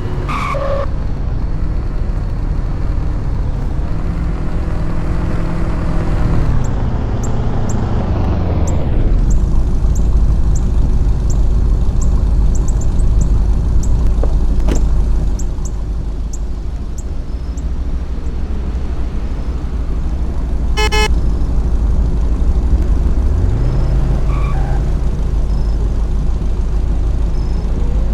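Car engines running with a steady low rumble, the revs dropping partway through and climbing again near the end, and short car-horn toots just after the start and again about three-quarters of the way in.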